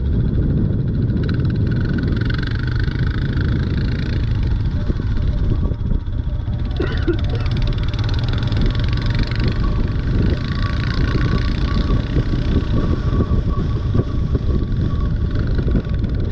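Motorcycle fitted with an aftermarket barrel exhaust running steadily while being ridden, a continuous low rumble.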